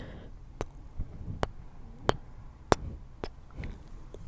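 A slow run of about five sharp, close-miked clicks a little over half a second apart, of the kind an ASMR artist makes with mouth, sticky fingers or light taps.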